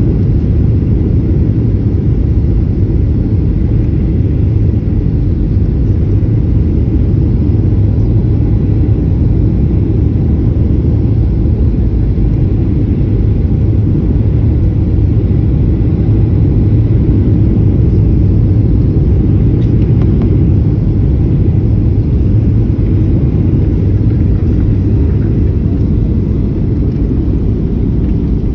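Steady, loud low rumble of a Boeing 737-800's CFM56-7B engines and airflow heard inside the passenger cabin.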